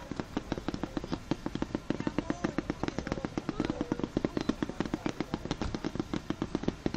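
Fireworks going off in a rapid, continuous string of sharp pops, roughly eight to ten a second.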